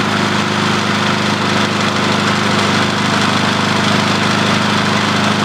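Briggs & Stratton push-mower engine running steadily on charcoal lighter fluid instead of gasoline.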